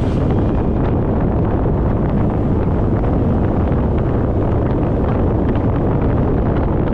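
Steady wind rush buffeting the action camera's microphone on a moving motorcycle, heaviest in the low end.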